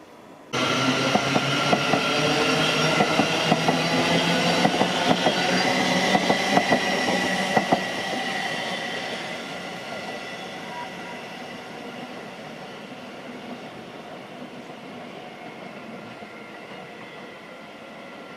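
A Class 313 electric multiple unit passing close by, with a Siemens Desiro City electric multiple unit. Many sharp clicks come from the wheels over the rail joints, with steady tones over the running noise. The noise starts abruptly about half a second in and fades steadily over the second half as the train moves away.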